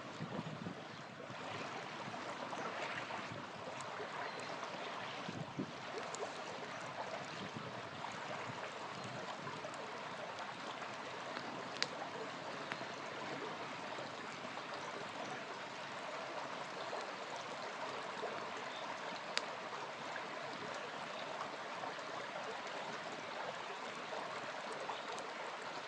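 A small river flowing steadily, with a campfire crackling under it and popping sharply a couple of times, once about halfway through and once later on.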